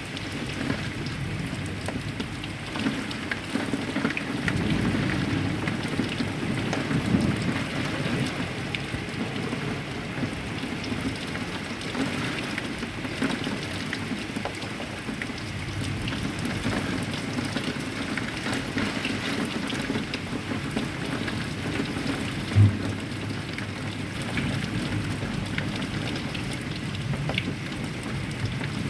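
Heavy rain falling steadily, with a low rumble of thunder swelling a few seconds in. A single short, low thump comes about three-quarters of the way through.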